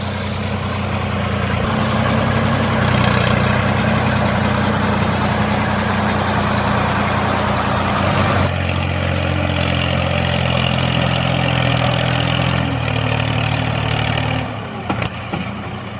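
Engine running steadily with a low hum; its sound shifts about halfway through and again a few seconds later, then it dies away shortly before the end.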